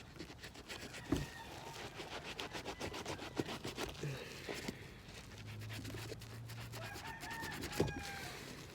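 A sponge and brush scrubbing a sneaker's rubber sole with dish soap in quick, repeated strokes. A rooster crows faintly, most clearly near the end.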